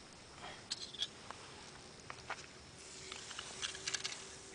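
Faint crackling and fizzing of a calcium carbide stone wetted with saliva as it reacts and gives off acetylene gas, with scattered small ticks. The hiss grows a little from about three seconds in.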